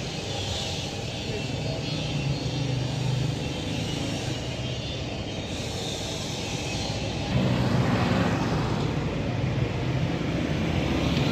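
A large truck's engine running steadily; it grows louder about seven seconds in.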